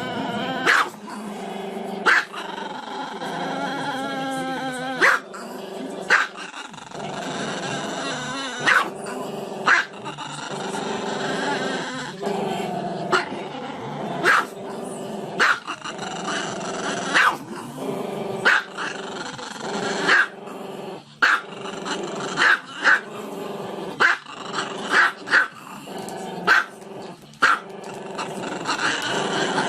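Dogs barking repeatedly in short, sharp barks, with continuous growling between them.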